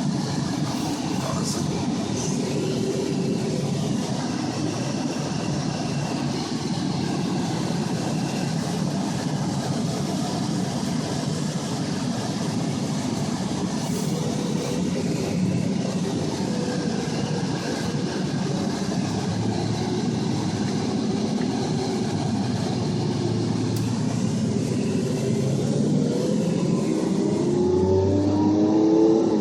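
Car engine running with road noise, heard from inside the moving car; near the end the engine's pitch climbs as it accelerates.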